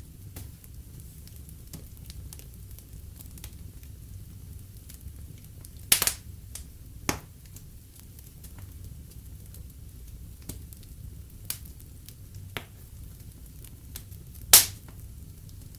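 Wood fire burning in a fireplace: a steady low rumble with scattered crackles and a few sharp pops, the loudest about six seconds in and near the end.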